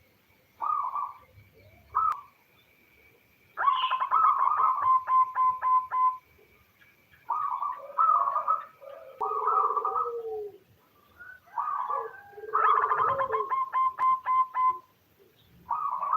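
Female zebra dove (perkutut) calling: short coo notes broken by two bursts of rapid stuttering notes of two to three seconds each, about four and thirteen seconds in. A faint steady high tone runs under the first six seconds.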